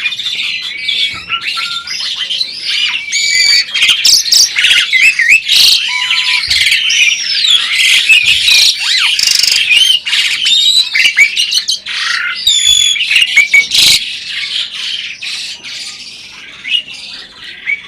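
Asian pied starling (jalak suren) singing a long, loud, varied song. It runs together rising and falling whistles, harsh squawking chatter and sharp clicks, and grows quieter in the last few seconds.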